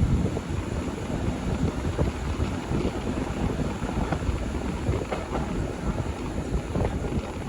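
Rhaetian Railway train running on the rails: a steady low rumble with wind buffeting the microphone and faint clicks now and then.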